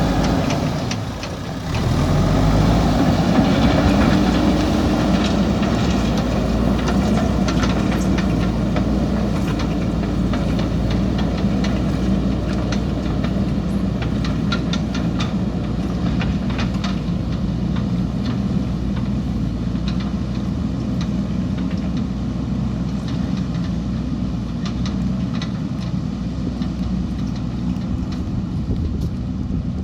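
Backhoe loader's diesel engine running under load, with scattered clanks and knocks from the bucket and stones. The engine dips briefly about a second in, then picks up again.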